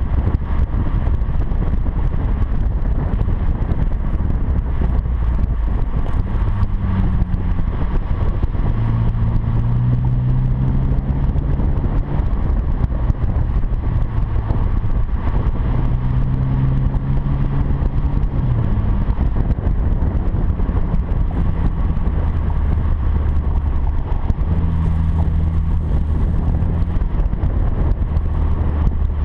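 Acura TL's V6 through a quad-tip catback exhaust with Magnaflow mufflers while driving: a steady low exhaust drone over wind and road noise. The engine note climbs twice in the middle under acceleration, then holds steady near the end.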